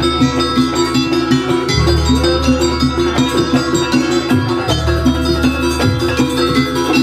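Traditional Banyuwangi gamelan music playing live: fast, repeating metallic notes over a deep low tone that swells every few seconds.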